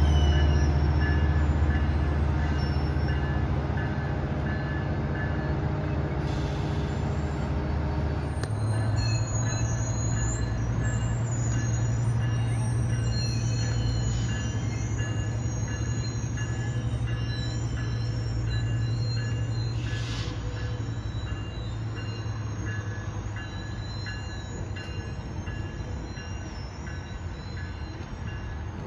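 A diesel train running on the rails, its engine a strong low hum that shifts to a different pitch about eight seconds in, with thin, steady high tones of wheel squeal over it. The sound slowly fades.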